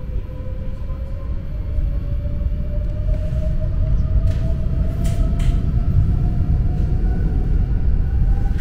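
Electric passenger train running on the rails: a steady low rumble, with a motor whine rising slowly in pitch as the train gathers speed. A few faint clicks come through in the middle.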